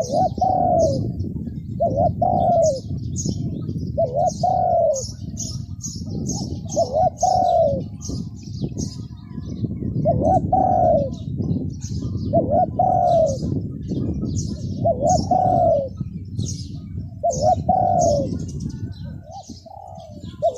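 Doves cooing in short repeated phrases about every two seconds, with quick high chirps from small birds and a steady low rush of strong wind.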